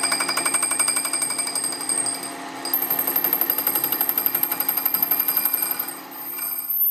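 A power tool hammering metal in a fast, even rattle of impacts. It dips briefly about two and a half seconds in and stops just before the end.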